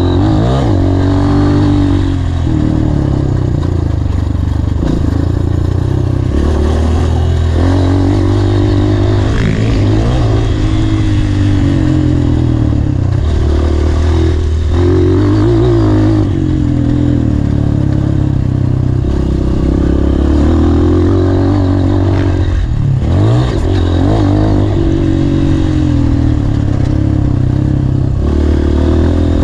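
Honda CRF230 dirt bike's single-cylinder four-stroke engine being ridden hard, revving up and dropping back again and again as the rider works the throttle and gears around a motocross track.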